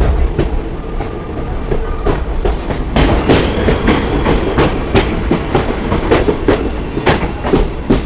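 Passenger train running along the track: a steady low rumble with the wheels clacking over rail joints, the clacks coming about two or three a second from about three seconds in.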